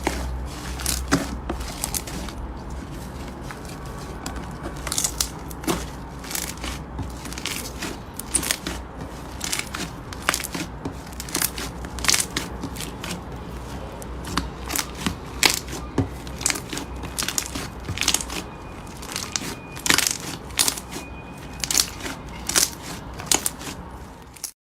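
Slime being squeezed and pressed by hand, giving irregular crackling and popping clicks over a faint low hum; the sound cuts off suddenly at the end.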